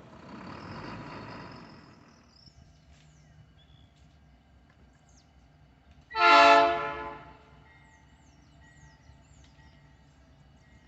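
Locomotive horn sounding one short blast about six seconds in, after the rolling noise of railcars dies away in the first two seconds. Birds chirp faintly afterwards.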